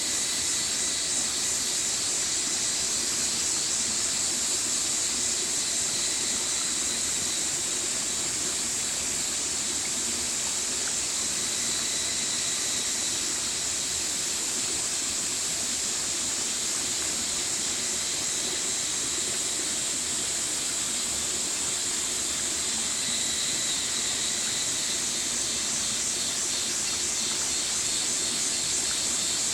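Stream water running steadily over rocks, an even rushing sound with a strong high hiss that does not change.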